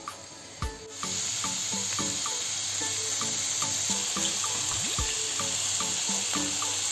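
Blended onion and pepper paste sizzling steadily as it stir-fries in olive oil in a frying pan, the hiss starting about a second in, over light background music.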